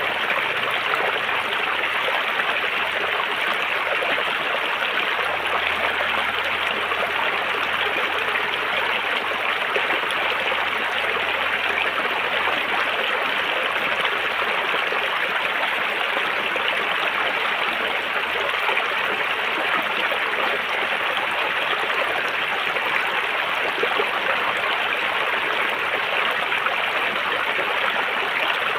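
River water flowing steadily, an even, unbroken wash of sound.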